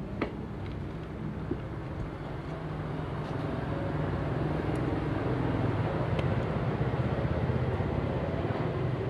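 An engine running steadily, growing louder from about three seconds in.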